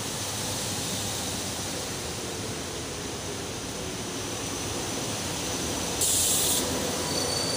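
SEPTA electric commuter train passing the platform at speed: a steady rush of wheels on rail and air, slowly getting louder. A short, sharp high hiss comes about six seconds in, and a faint high wheel squeal starts near the end.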